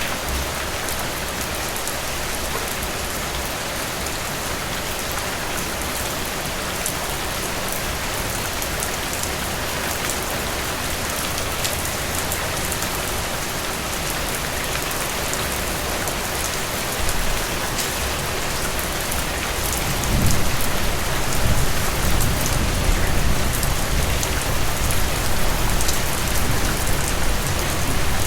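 Steady rain falling through trees, a dense hiss full of fine drop patter. About two-thirds of the way in, a deep low rumble swells in beneath the rain and carries on.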